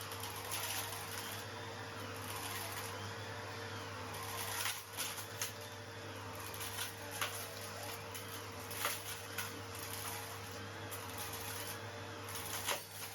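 Henry vacuum cleaner running steadily while it sucks up small stones, which clink and rattle sharply up the hose at irregular moments, several of them from about halfway through.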